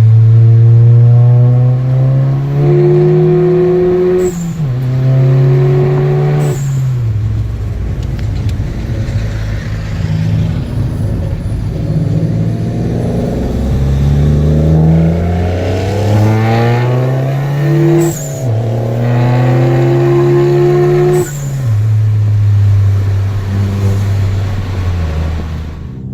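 VW Golf GTI Mk7's turbocharged four-cylinder under full-throttle acceleration in two pulls, engine pitch climbing and dropping sharply at each quick upshift. A steady drone holds one pitch through the pulls as the revs rise: a weird noise that the owner traced to the muffler delete.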